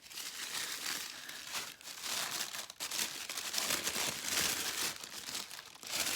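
Tissue paper being unwrapped by hand, crinkling and rustling in quick, irregular handfuls.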